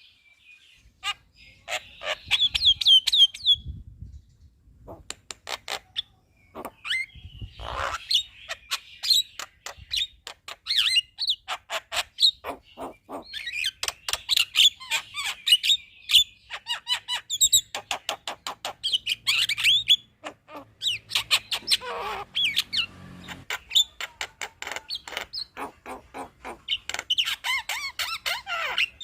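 Javan myna (jalak kebo) singing a long, fast chattering song of squeaky whistled warbles mixed with rapid sharp clicks, coming in bursts a few seconds long with short pauses between.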